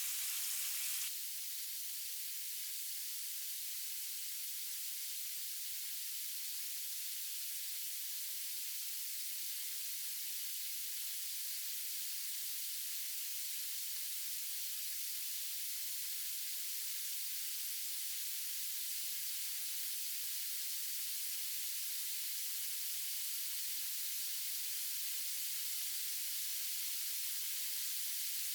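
Steady, even hiss with almost no low end, changing abruptly about a second in.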